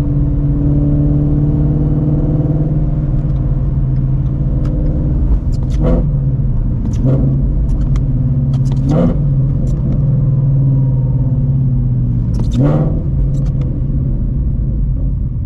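2016 Shelby GT350's 5.2-litre flat-plane-crank Voodoo V8 running steadily under light throttle through long-tube headers, an X-pipe and a Borla cat-back exhaust. The pitch rises a little in the first few seconds and then holds, and a few short sharp noises cut across it about six, nine and thirteen seconds in.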